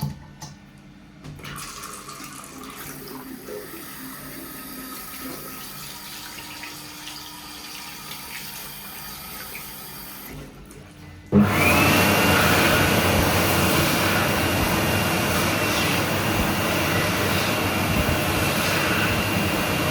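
Kuaierte K2201 hot-air hand dryer starting abruptly about eleven seconds in and running loudly and steadily, its whine rising briefly as it spins up, then holding. Before that, a softer steady rushing sound.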